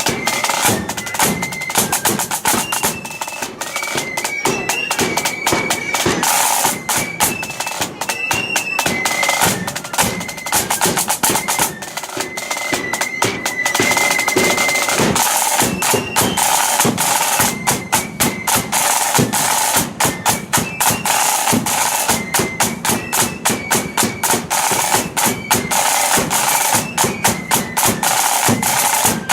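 A marching flute band playing: flutes in unison carrying a high tune over snare drums and a bass drum, the drum beat keeping a steady marching rhythm.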